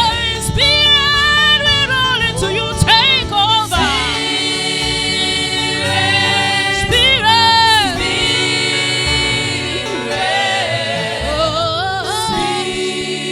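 Gospel worship singing: voices holding and bending long notes, without clear words, over a steady musical backing.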